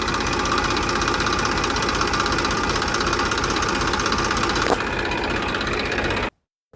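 A small motor running steadily, cutting off suddenly about six seconds in, with a faint knock right at the end.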